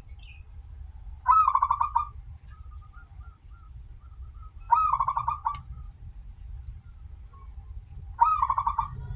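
Zebra dove (perkutut) singing its cooing song three times, evenly spaced, each phrase a quick run of rolling notes lasting about a second. A low background rumble runs underneath.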